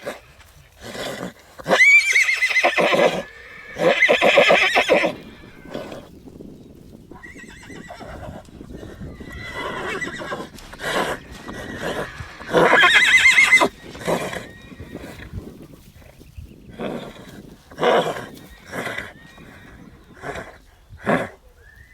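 Horse neighing repeatedly: long, loud whinnies about two seconds in, about four seconds in and again about halfway through, with shorter calls in between.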